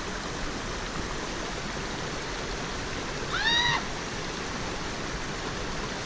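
Steady rushing of a running mountain stream. About three and a half seconds in comes one short, high-pitched squeal that rises and falls.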